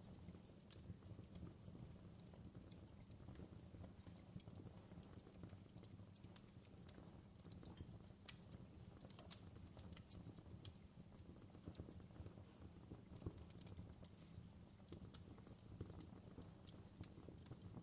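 Faint wood fire crackling in a fireplace: irregular sharp pops and snaps over a low steady rumble.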